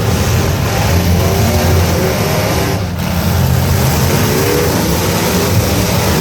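Truck engines running loud and revving, with pitch rising and falling, and a brief drop about three seconds in.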